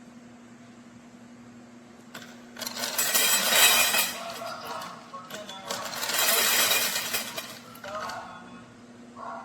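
Dry cat kibble rattling as it pours into bowls, in two long bursts and a short third one near the end.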